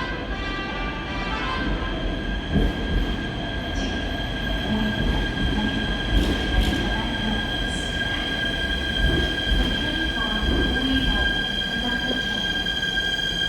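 Seoul Subway Line 4 electric train running at the platform, with a steady high-pitched squeal from its wheels over a low rumble.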